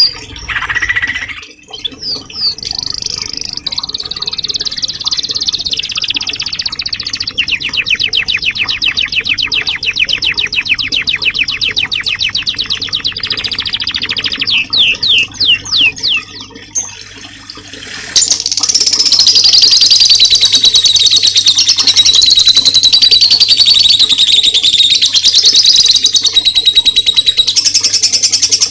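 A small songbird singing: a long, fast, even trill of repeated high notes and a few sliding whistles, then, about two-thirds of the way in, a louder, continuous high-pitched warbling chatter.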